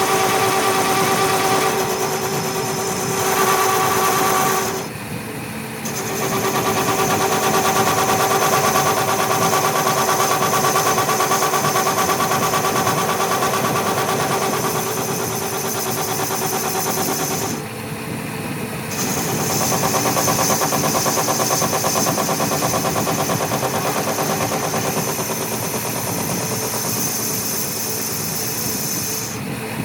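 Machinery running steadily with a constant hum, briefly dropping out twice.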